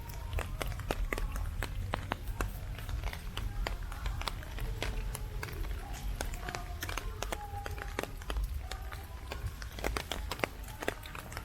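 Heavy typhoon rain: raindrops ticking and pattering irregularly close to the microphone over a steady low wind rumble, with faint voices in the background.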